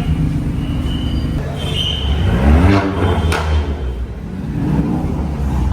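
Car engines running with a deep rumble, the engine pitch rising and falling about two and a half seconds in and again near the end, and a sharp click a little past three seconds.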